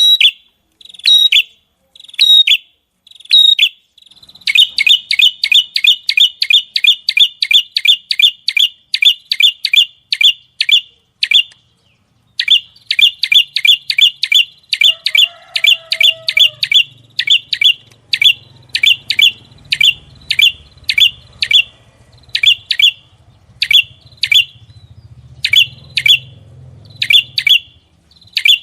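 A small songbird repeating a sharp, high chirp, the rapid 'tembakan' (shot) calls of a masteran recording. A few spaced calls come first, then fast runs of about four a second with a short break about twelve seconds in, thinning out to spaced calls near the end.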